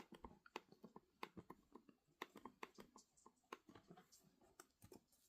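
Faint, irregular clicking of computer controls, a few clicks a second.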